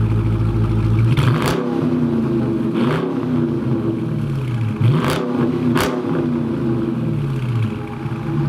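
Dodge Challenger's engine being revved, its pitch rising and falling several times, with a few sharp clicks in between.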